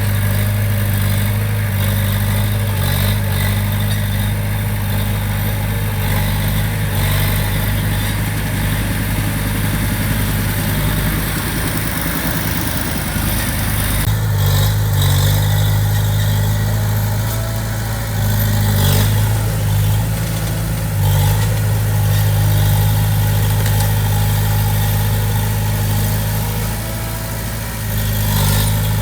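Diesel engine of heavy construction equipment running steadily with a deep, even hum; the tone shifts slightly about halfway through.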